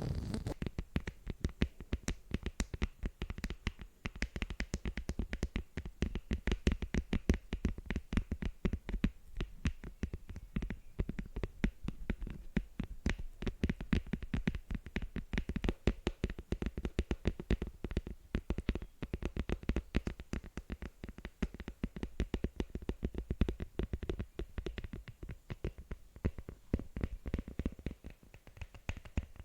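Fingers tapping quickly on a surface for ASMR, a steady unbroken stream of light taps several times a second.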